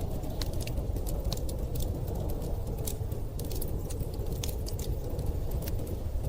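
Fire crackling with many irregular sharp pops over a steady, low rush of storm wind that carries a faint wavering howl.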